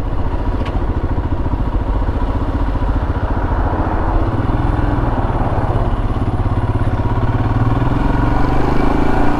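Royal Enfield Himalayan's single-cylinder engine running under way, its note rising gently about halfway through as the bike picks up speed.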